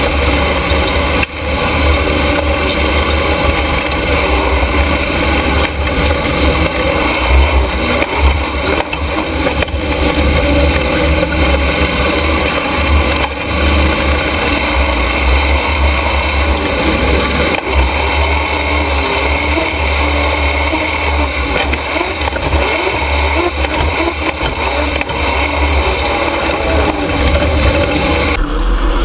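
Super Stock race truck running on track: continuous engine and road noise at speed, with the high end dropping away suddenly near the end.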